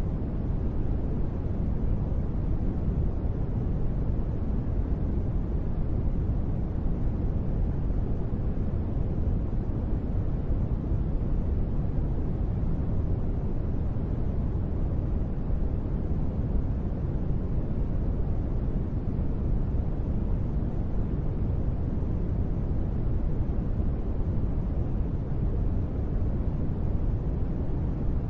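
Steady, deep sleep noise sold as gentle rain: a constant low, muffled rush with little hiss and no separate drops, unchanging throughout.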